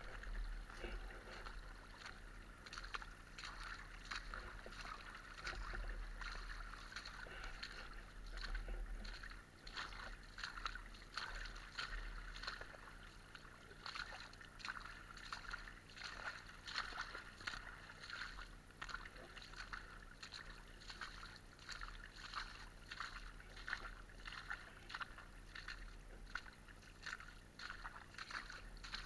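Water splashing and rushing, with many small irregular splashes over a steady wash, and a low rumble underneath.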